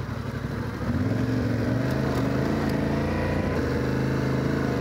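Yamaha Ténéré 700's parallel-twin engine running under way, picking up revs about a second in and then pulling steadily.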